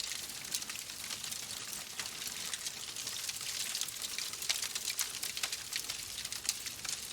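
Wood fire crackling in a fireplace: a steady soft hiss with frequent small, sharp pops and snaps scattered irregularly through it.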